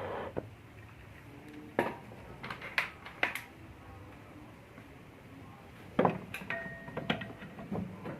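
Scattered sharp metal clinks and knocks from fitting a crankshaft into a heated motorcycle crankcase, in two short clusters with quiet between, one of them leaving a brief ring.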